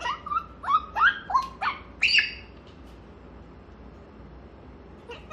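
African grey parrot giving a quick run of about six short, rising calls, then falling quiet, with one more brief call near the end.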